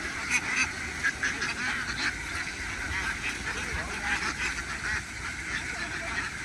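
A large flock of domestic ducks quacking, with many calls overlapping in a continuous din.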